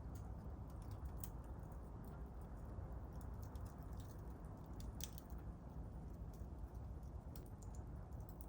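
Small wood campfire burning, firewood crackling with scattered irregular pops over a low steady rumble; a sharper pop about five seconds in.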